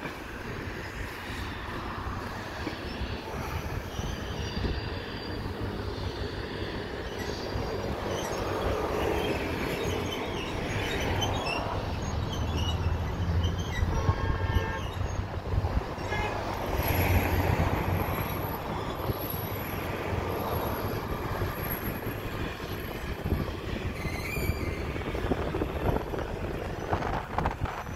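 A rake of Intercity passenger coaches rolls slowly past during shunting, hauled by an FS D.245 diesel shunting locomotive. The wheels rumble over the yard tracks and points under a steady low engine hum, with thin, high wheel squeals in the second half.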